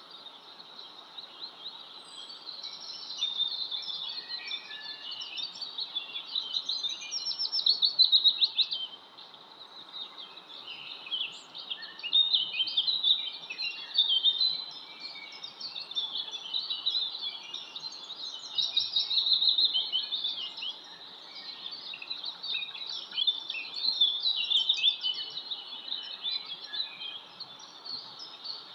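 A chorus of small birds chirping and twittering together: many short, high chirps overlapping, swelling and fading in waves over a faint steady hiss.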